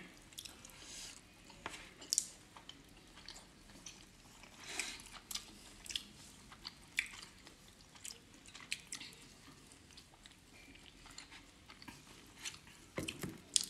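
Close-miked mouth sounds of people eating soft steamed momos: quiet chewing with short, scattered wet clicks and smacks.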